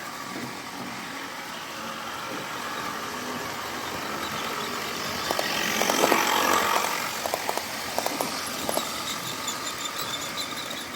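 OO gauge model train running on the layout's track: a steady running sound that grows louder about six seconds in as the train passes closest, then eases, with a run of short clicks.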